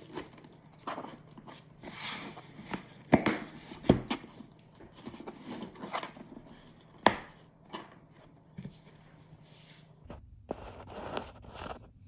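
Knife chopping on a cutting board: irregular knocks and light taps, with a few sharper strikes.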